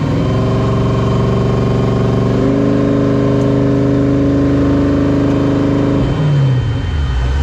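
Off-road race truck's engine heard from inside the cab, pulling under throttle. Its pitch climbs at the start, steps higher about two and a half seconds in and holds, then drops off about six seconds in and rises and falls again near the end.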